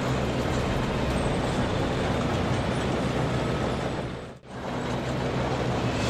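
Steady tank engine-and-track noise for toy military tanks, dropping out sharply for a moment about four and a half seconds in.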